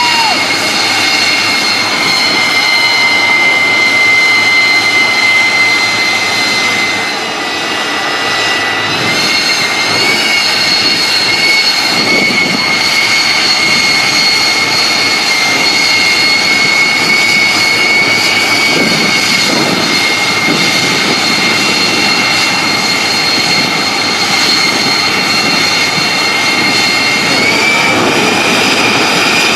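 Truck-mounted jet engine running with a loud, steady high whine over a rushing roar. The whine sags slightly in pitch and loudness about seven seconds in, climbs back about two seconds later, and shifts upward again near the end.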